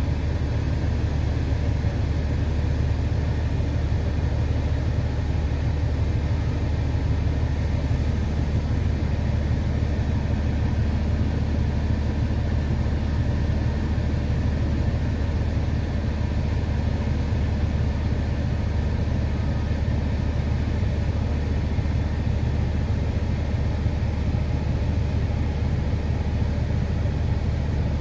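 Diesel engine running steadily with an even, low drone, without revving or breaks.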